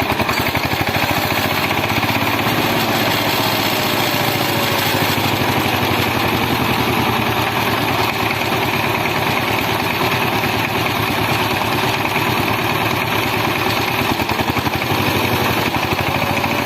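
Small motor of a homemade mini tractor rig running steadily, with a fast, even chatter.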